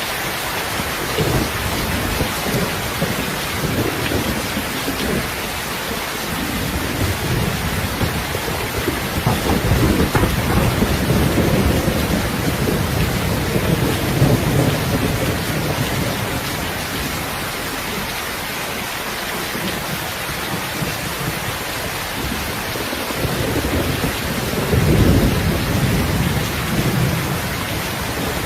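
Steady rainfall hissing throughout, with low rolling thunder rumbling in slow swells, strongest about a third of the way in and again near the end.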